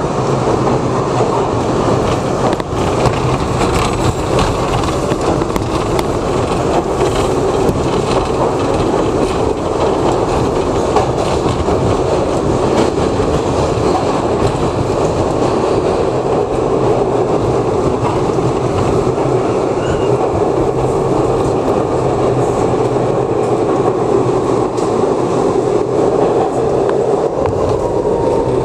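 New York City subway R62A car running steadily along the track, heard from inside the car: continuous rumble and rail noise at an even level.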